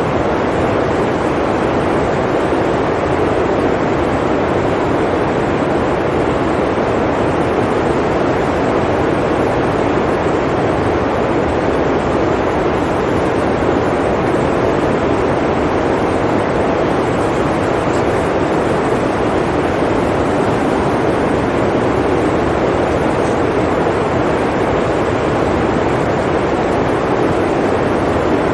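Blizzard wind: a steady, even rushing noise with no gusts, breaks or separate sounds.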